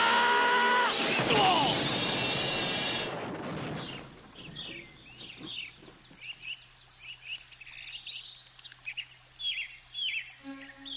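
Loud music with a sliding, falling tone for the first few seconds, then birds chirping: many short, high, downward-sweeping chirps repeated irregularly.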